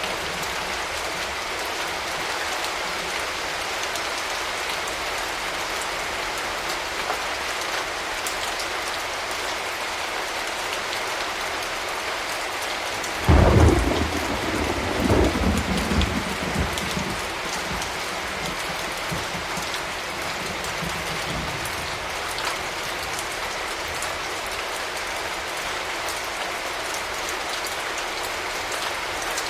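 Steady rain falling, with a sudden thunderclap about halfway through that rumbles on for a few seconds before fading back into the rain.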